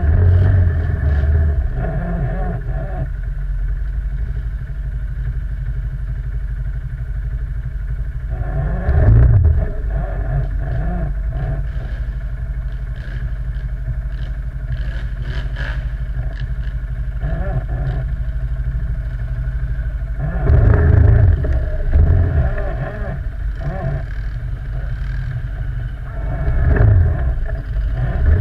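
Quad bike (ATV) engine running under way with a steady low drone, opened up in louder throttle surges about nine seconds in, around twenty seconds in, and again near the end.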